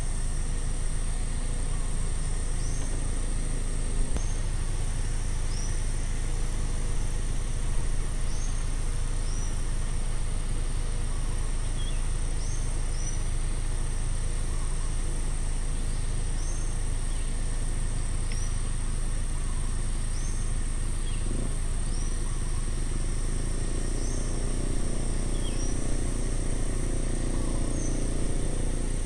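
Roadside ambience: a steady low rumble of road traffic under a continuous high insect drone. A bird repeats a short, high chirp about every second or so. A low hum swells near the end.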